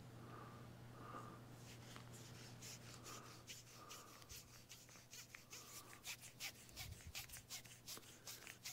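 Faint scratching and light clicks of small parts being handled and rubbed, getting busier from about two and a half seconds in, over a steady low hum.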